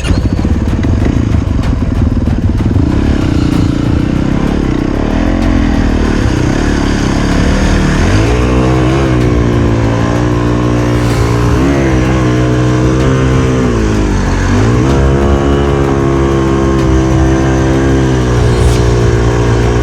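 Yamaha YZ450FX single-cylinder four-stroke dirt bike engine labouring through a sand-bottom river crossing: a rough, noisy rumble at first, then from about eight seconds in the revs rise and fall several times as the rider works the throttle to keep the bike from bogging down.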